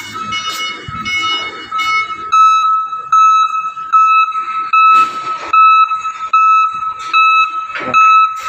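Heli G3 CPD30 lithium forklift's warning beeper sounding while the truck reverses. For the first two seconds a faster, higher beeping runs over a steady tone; then comes an even chain of beeps, about one and a half a second, with a few clunks in between.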